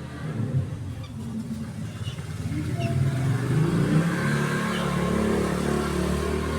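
A motor vehicle's engine running and growing louder about halfway through, with a few short, high chirps from white-eyes over it.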